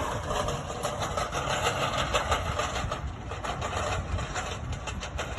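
An engine running steadily with a low rumble, with scattered light clicks over it.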